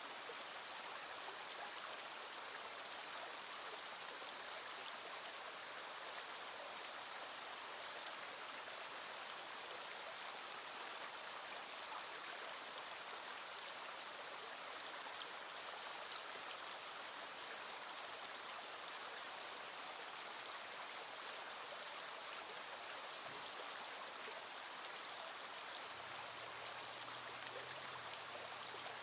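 Small mountain stream flowing steadily, an even rush of water with no pauses. A faint low hum comes in near the end.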